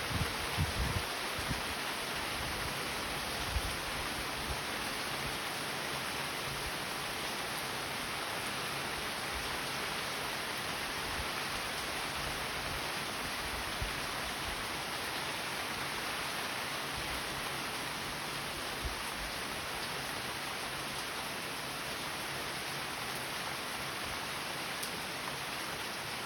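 Rain falling steadily, an even hiss, with a few dull low bumps in the first few seconds.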